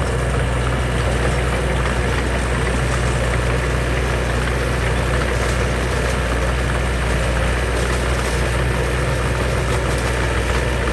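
Heavy construction machine's diesel engine running steadily at a constant low hum.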